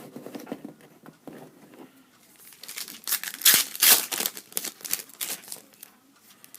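Trading card pack wrapper crinkling and tearing as it is handled. The crackling is loudest about three seconds in and runs for a couple of seconds.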